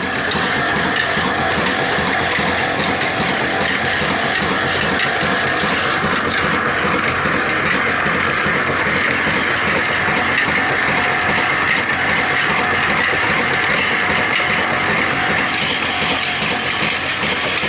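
Desi diesel oil engine running steadily, with an even, rapid beat and a metallic clatter.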